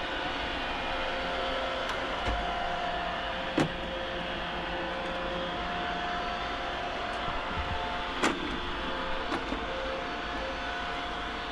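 Two Roomba robot vacuums, an E5 and an 805, running on carpet: a steady whir of their motors and brushes, with two sharp knocks, one about a third of the way in and one past the middle.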